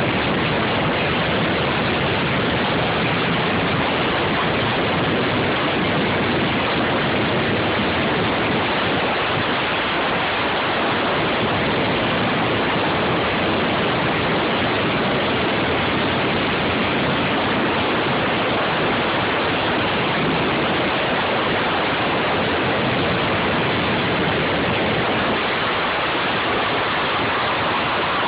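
Steady, loud rushing wind noise buffeting the phone's microphone while riding along at speed, with no engine note standing out.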